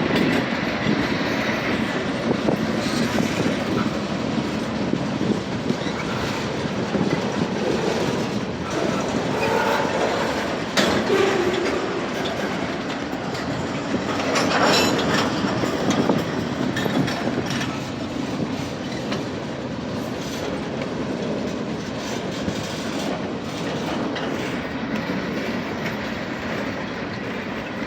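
Norfolk Southern freight train rolling slowly past, its wheels clacking over the rail joints in a steady rumble, with a brief metallic squeal about ten seconds in.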